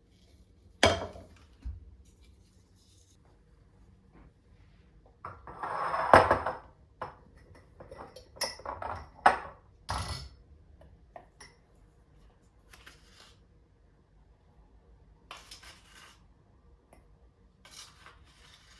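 Kitchen handling sounds: dishes and cutlery knocking and clinking as they are set down and moved, with a short scraping or rubbing sound about six seconds in and softer rustles later on.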